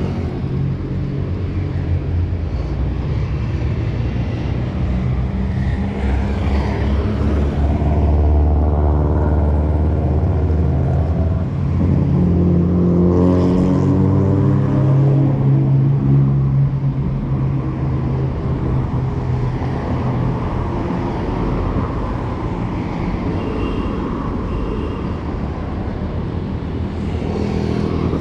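City street traffic: motor vehicle engines running close by throughout. The loudest stretch is in the middle, where an engine's pitch rises and falls as a vehicle accelerates nearby.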